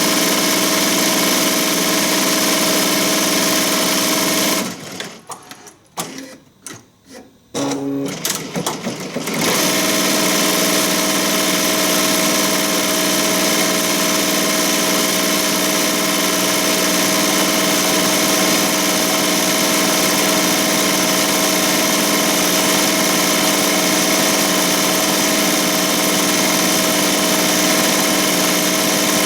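ZSK Sprint 10-needle commercial embroidery machine stitching at speed with a steady hum. About five seconds in it stops for a few seconds, with a few short clicks, then runs again.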